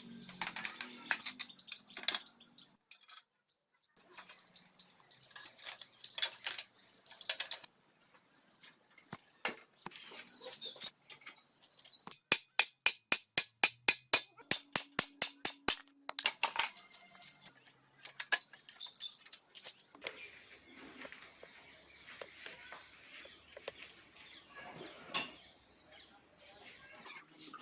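A series of sharp clicks and taps, with a quick run of evenly spaced taps, about five a second, in the middle.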